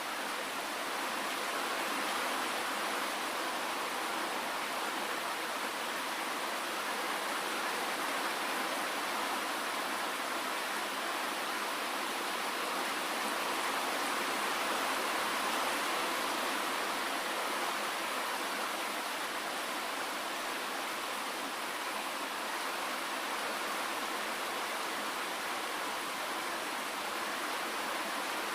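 Steady rain falling in an even hiss, without separate drops standing out, and with little bass.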